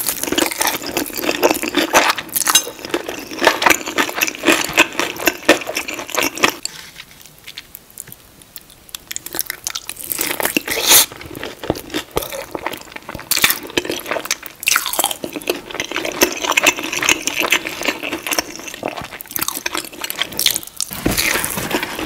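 Close-miked eating of fried food: crisp crunching bites and wet chewing. It goes quieter for a few seconds in the middle, then turns dense again.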